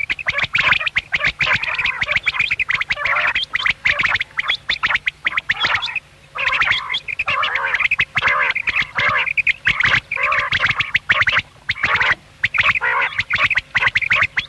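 Quail calling in a rapid, crowded run of chirps and clicks, with a brief break about six seconds in.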